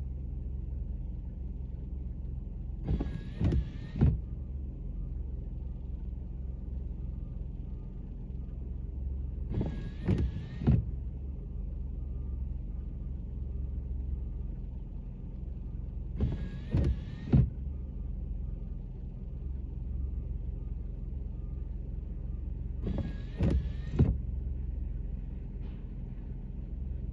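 Inside a car's cabin: the engine idles with a steady low rumble, while the windshield wipers run on intermittent, sweeping four times at about every six to seven seconds. Each sweep is a short motor whine with a knock or two from the blades.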